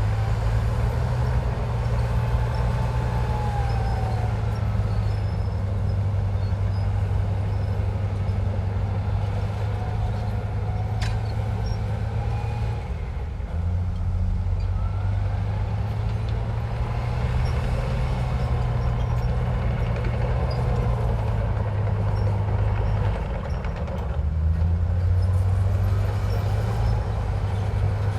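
Heavy diesel engine of earthmoving machinery running under load, its deep drone dropping and rising in pitch twice, with faint high squeals gliding up and down over it.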